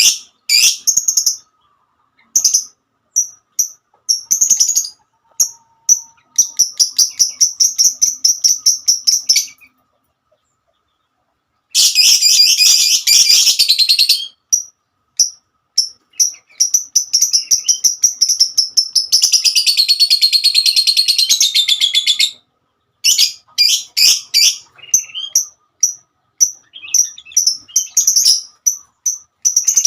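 Lovebird chattering in long runs of rapid, high-pitched chirps lasting several seconds each, with a pause of about two seconds near the middle.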